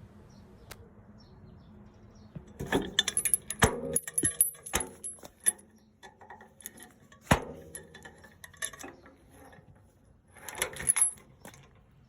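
Clattering knocks and metallic rattling, in two bursts with a single sharp knock between them.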